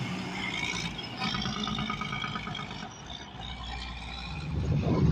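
Road traffic passing, with a vehicle's engine rumble growing louder near the end.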